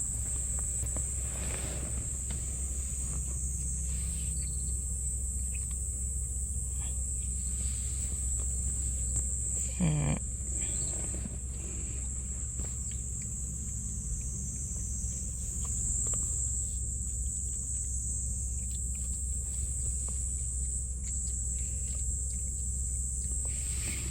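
Steady high-pitched chirring of crickets or other night insects, over a low steady hum. About ten seconds in comes one short sound that falls steeply in pitch.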